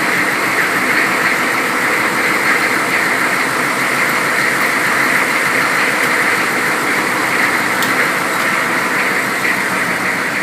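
GEP 6.5-litre turbo V8 diesel idling steadily soon after a cold start, with an even diesel clatter. It carries the idle noises that the owner is unsure of.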